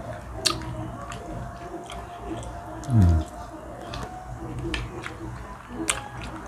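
Close-mic eating sounds of people eating grilled milkfish with their hands: chewing, with scattered sharp mouth clicks and smacks. About three seconds in, a brief low vocal sound slides down in pitch, the loudest moment.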